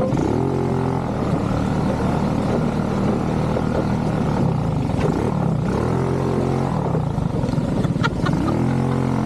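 ATV engine running, its revs climbing and then holding three times: shortly after the start, about halfway through, and near the end.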